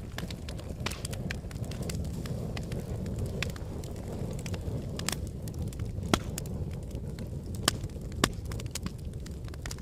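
Wood fire burning in a fireplace: a steady low rumble with irregular sharp crackles and pops, the loudest two near the middle and after about eight seconds.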